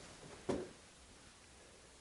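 A single thump about half a second in, followed by faint steady background noise.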